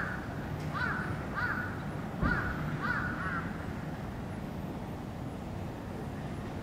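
A bird outside gives five short, harsh calls in quick succession in the first few seconds, then falls silent. A steady low hum runs underneath.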